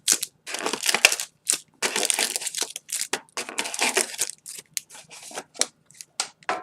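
Booster-pack wrappers and packaging crinkling and rustling in the hands, in irregular bursts.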